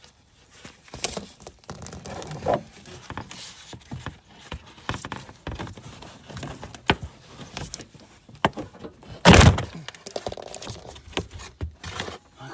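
Hand work in a car's engine bay: a string of scattered knocks, clicks and rattles of tools and parts being handled, with one heavy thunk about nine seconds in.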